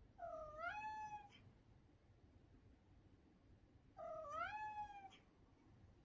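Domestic cat meowing twice, each meow about a second long, dipping in pitch and then rising and holding.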